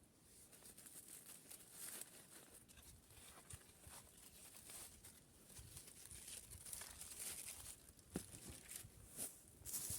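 Faint, irregular crackling of a wood or charcoal fire burning in a mangal, with a few sharper cracks in the last couple of seconds.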